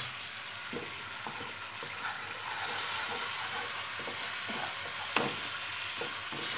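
Tomato and tamarind masala with fresh turmeric and red chilli powder sizzling in hot oil in a non-stick kadai as a wooden spatula stirs it, with soft scrapes and knocks of the spatula against the pan. The sizzle gets louder about two and a half seconds in, and there is one sharper knock about five seconds in.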